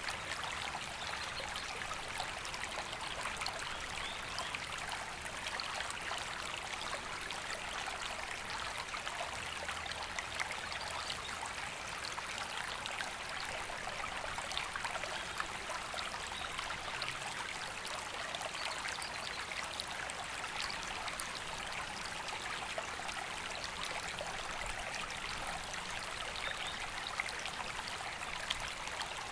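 River water flowing steadily, an even rushing with fine trickling and splashing.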